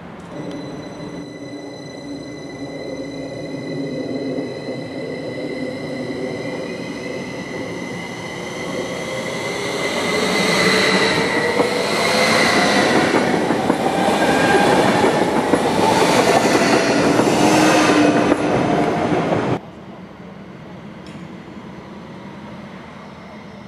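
SBB double-deck S-Bahn electric commuter train pulling out and passing close. Its traction motors whine in rising pitch as it speeds up, over steady high tones and wheel-on-rail noise. The sound cuts off suddenly near the end, leaving a quieter, even station background.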